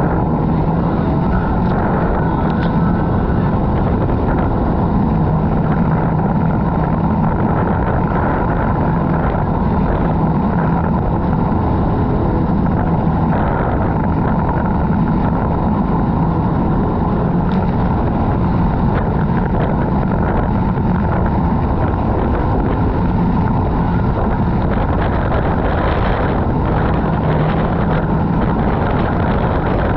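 Jet ski engine running steadily at speed, a constant loud drone with a low hum underneath, mixed with wind noise on the microphone.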